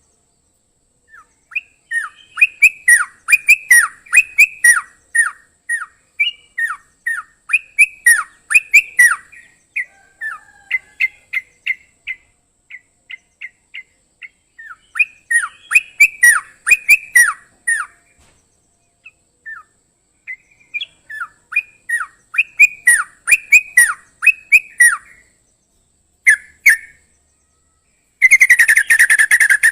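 Yellow-vented bulbul singing: phrases of quick, sharp downward-slurred notes with short pauses between them. Near the end the song turns into a fast, unbroken chatter.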